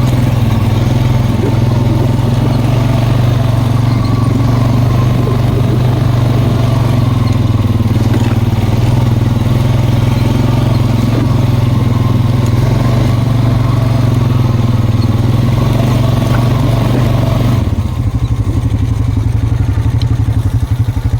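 ATV engine running steadily under throttle, climbing a snowy trail. About three seconds before the end the throttle comes off and the engine drops to a lower, pulsing idle.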